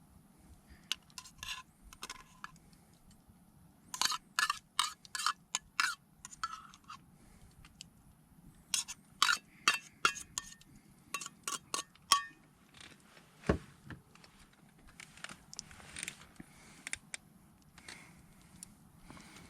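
Cooking utensils and cookware clinking and tapping in two quick clusters of sharp, short-ringing clinks, with softer scattered taps and a scrape later on.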